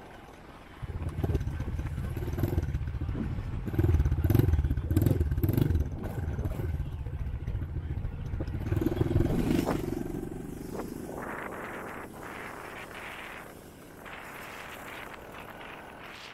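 Honda CRF110F dirt bike's small single-cylinder four-stroke engine picks up about a second in and runs loud, its revs surging up and down. It eases off around ten seconds in, leaving a lower running sound with a hiss.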